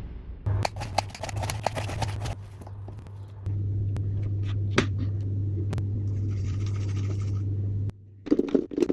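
A few seconds of light clicks and scraping, then a steady low electrical hum that starts about three and a half seconds in and cuts off suddenly near the end.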